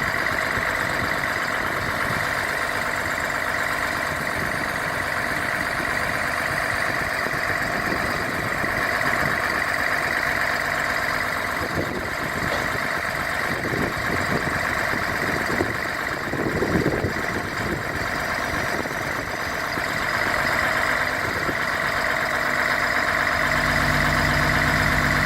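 Mercedes-Benz SK 1824 AK truck's diesel engine running steadily at idle, with a few heavier low rumbles partway through and a deeper, slightly louder note near the end.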